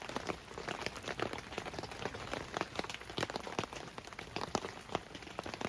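Rain falling: a steady hiss with many irregular small drop ticks hitting a surface.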